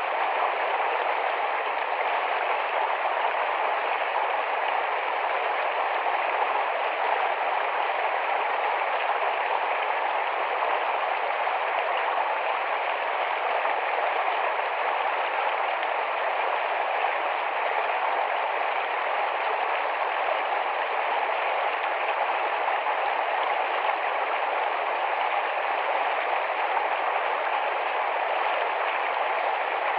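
Shallow, fast-running forest stream: a steady rushing and babbling of water that does not let up.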